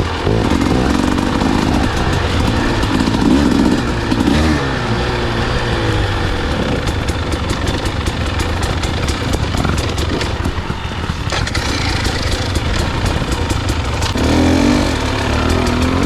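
Dirt bike engine revving up and down while riding, with frequent clicks and rattles. It eases off in the middle and revs up again near the end.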